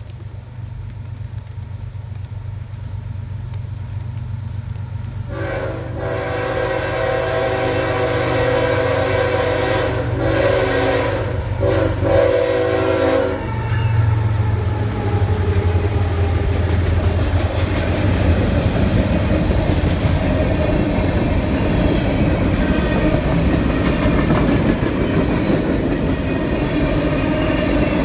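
CSX diesel freight locomotives approach with a low engine rumble and sound a multi-chime horn for about eight seconds, then the train passes close by with steady wheel-on-rail rolling and clatter of the freight cars.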